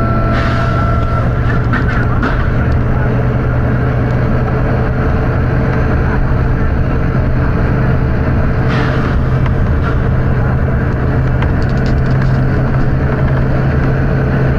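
Volvo B9TL bus's diesel engine running with a steady low drone, with two short air hisses from the bus's compressed-air system, one about half a second in and another about nine seconds in.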